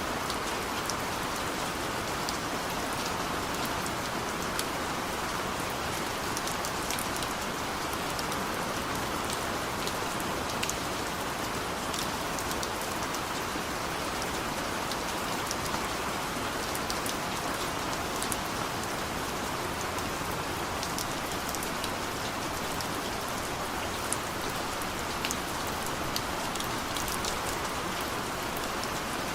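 Steady heavy rain falling, a continuous even hiss with scattered sharp patters of individual drops throughout.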